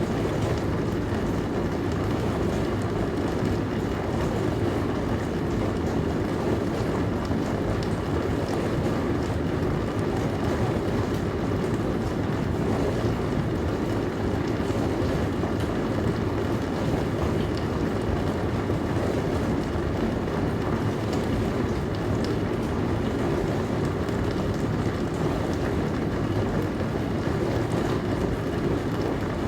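Dishwasher running mid-cycle: a steady wash of spraying water over a low rumble, with a few faint ticks.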